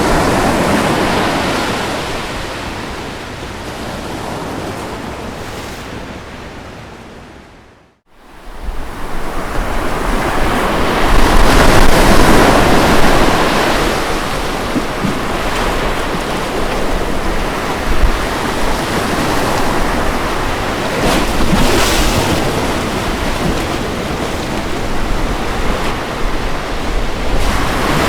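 Ocean waves washing in and out on a beach, a continuous rushing surf that swells and ebbs. About eight seconds in the sound dips almost to nothing for a moment, then builds again to its loudest a few seconds later.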